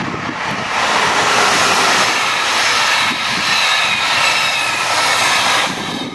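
VR Intercity 2 double-deck passenger train passing close by: a loud, steady rush of wheels on rails with a faint high whine on top. It drops away near the end as the last car goes by.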